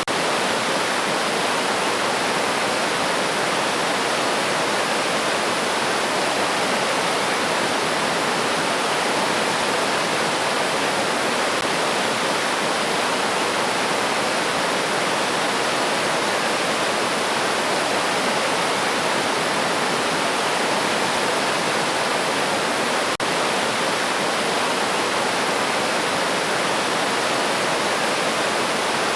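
River water rushing steadily over rocks, an even noisy wash with no birdsong standing out. A brief click interrupts it once, about three-quarters of the way through.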